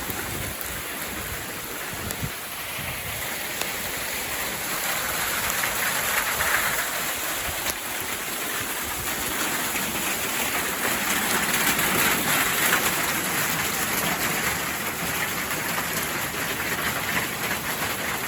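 Hailstorm: hailstones falling steadily and hitting the ground and surfaces in a dense patter of many small hits. It grows heavier a few seconds in.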